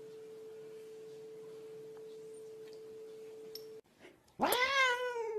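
A steady single pure tone holds for almost four seconds and then stops abruptly. About a second later a grey-and-white domestic cat lets out a loud yowl that rises and then falls in pitch with a wavering quaver.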